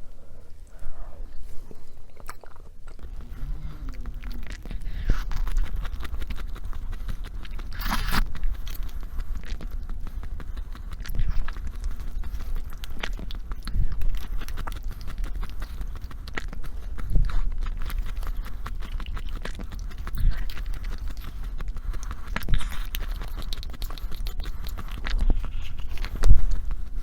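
Close-miked chewing and biting of food: a steady run of short sharp mouth clicks, with a louder bite every few seconds and the loudest near the end.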